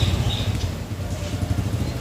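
Low rumble of a passing motor vehicle, dying away, with two faint short high bird notes near the start.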